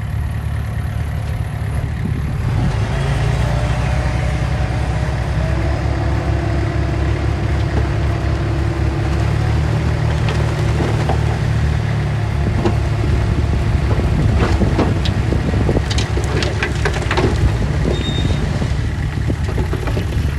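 Diesel engine of heavy earthmoving machinery running steadily, growing louder a couple of seconds in. A quick run of knocks comes through about three-quarters of the way through.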